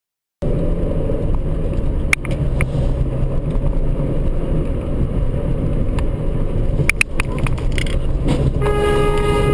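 Road and engine rumble of a moving car starts abruptly, with a few sharp clicks scattered through it. A car horn sounds in one steady honk near the end.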